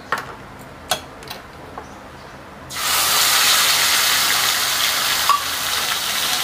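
A few light clicks, then about a third of the way in a sudden loud sizzle as a wet ground onion-and-spice paste hits hot oil in a non-stick kadai. The sizzling goes on steadily while the paste is stirred with a wooden spatula, easing slightly near the end.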